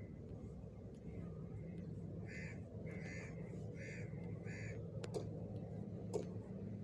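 A bird calling four times in quick succession in the background, each call short and evenly spaced, followed by two faint clicks near the end.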